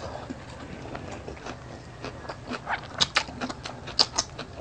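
Close-miked eating sounds: chewing and lip smacking, a run of short wet mouth clicks, the sharpest about three and four seconds in.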